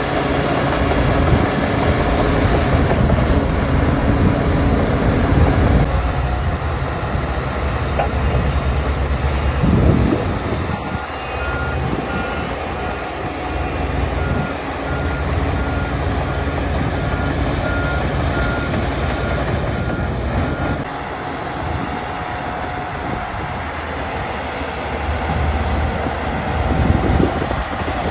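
Heavy diesel earthmoving machinery running, its engine note rising and falling with load. A reversing alarm beeps at an even pace for about ten seconds in the middle.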